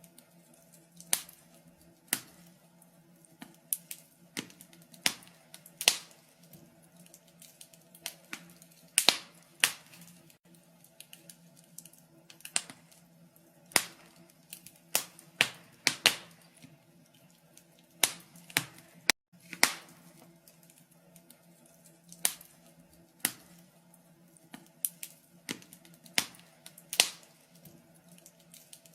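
Wood fire crackling in a fireplace: sharp, irregular pops and snaps come one to three every second or so, over a faint steady low hum.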